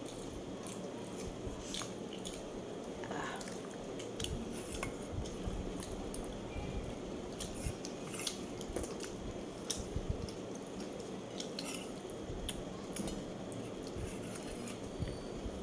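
Close-miked eating sounds: wet chewing and mouth noises with many scattered sharp clicks.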